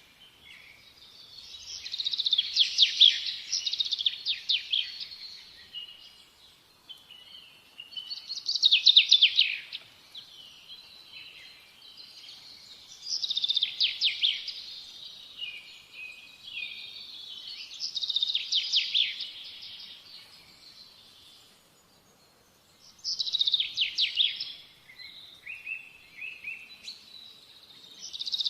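Songbirds singing in repeated bouts of rapid, trilled high phrases, a new bout about every five seconds, with short quieter gaps between.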